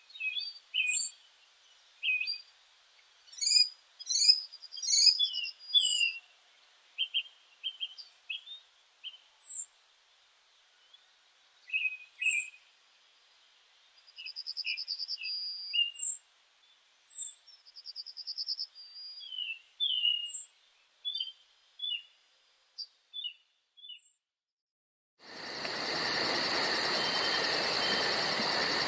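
Wild songbirds calling: short chirps and slurred whistles, with two brief rapid trills in the middle. About 24 s in the birds stop short, and a second later a dense, steady insect chorus of fast-pulsing high chirring begins, typical of crickets.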